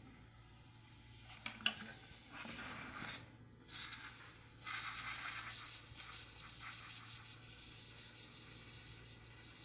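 Irregular scratching and scraping noises in bursts, with a sharp click about a second and a half in, over a faint steady low hum.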